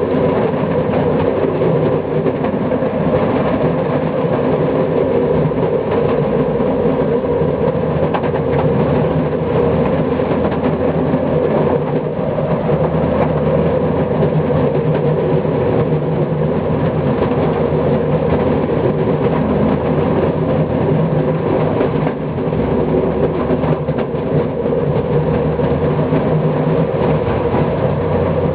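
Train running steadily along the track: a continuous, even drone with no impacts.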